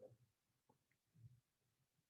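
Near silence, with a few faint soft bumps and a tick.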